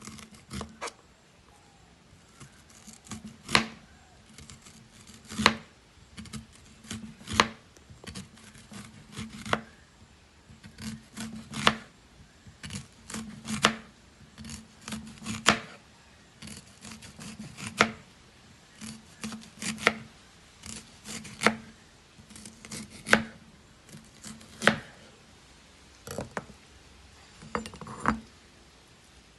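Repeated sharp cutting clicks from a blade working through star fruit, irregular, about one to two a second, each with a short dull knock beneath it.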